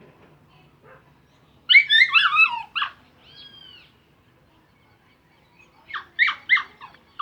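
A dog barking: a run of high, yelping barks about two seconds in, then four quick barks near the end.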